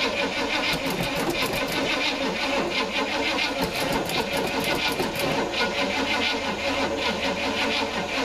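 Starter cranking a Chevrolet 350 small-block V8 that has sat unrun for a long time, turning it over rapidly without the engine catching, then stopping abruptly near the end. The cranking is taken as the sign of a weak, unhealthy battery.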